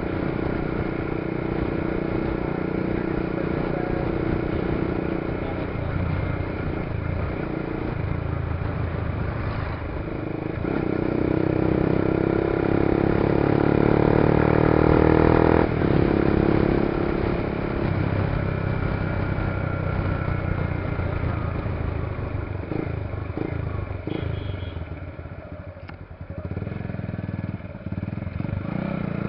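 Suzuki Gixxer SF single-cylinder engine running through a custom exhaust with a LeoVince slip-on silencer. The engine note climbs and grows louder about a third of the way in, then falls away near the end before picking up again.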